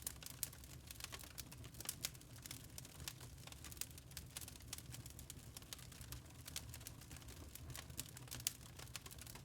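Log fire crackling: irregular sharp pops and snaps of burning wood, a few louder ones standing out, over a steady low rumble.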